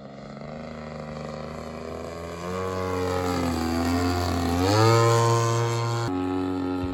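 Radio-controlled 107-inch scale Cessna 195 model plane flying, its engine and propeller note swelling. The note dips in pitch, climbs again and is loudest about five seconds in.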